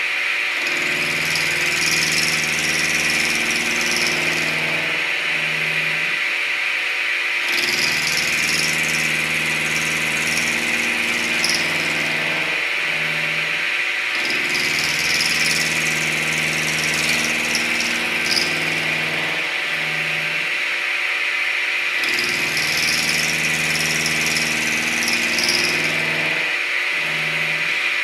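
Milling machine cutting a metal part: a steady high whine with bouts of cutting noise that repeat in a regular cycle of a long stretch and a short one, about every seven seconds.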